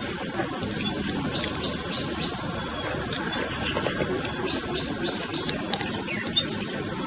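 Food sizzling over an open fire: a steady hiss with small crackles and pops scattered through it.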